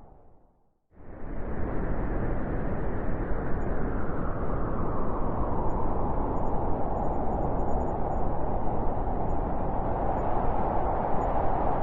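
Wind blowing as a steady rushing noise. It fades away to near silence right at the start, comes back in abruptly just under a second in, and then keeps up evenly.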